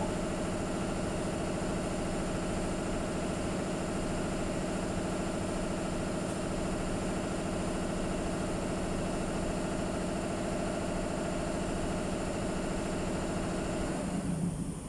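A motor or engine running at a steady speed, then stopping about a second before the end.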